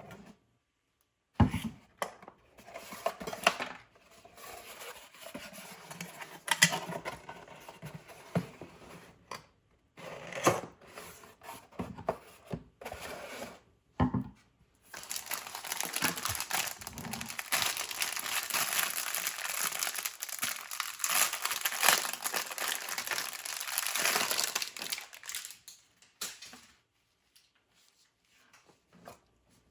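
Product packaging being handled and opened: plastic wrapping crinkling and tearing, with scattered knocks and clicks at first and a long stretch of steady crinkling in the middle.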